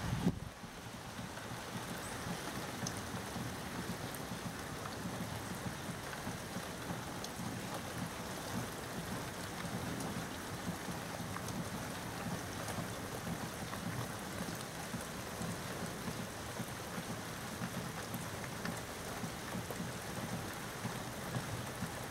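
Heavy rain falling steadily, with a brief low thump right at the start.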